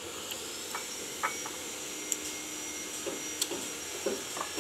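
A power tool at a neighbouring construction site runs with a steady high-pitched whine, with a few light clicks over it.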